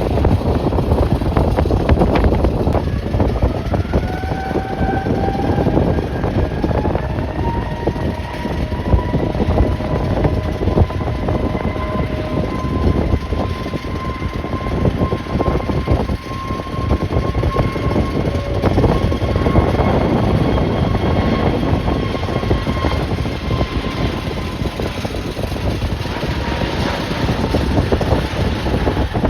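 Jet airliner engines whining: the whine rises in pitch a few seconds in, holds steady, then fades near the end. Strong wind rumbles on the microphone throughout and is the loudest sound.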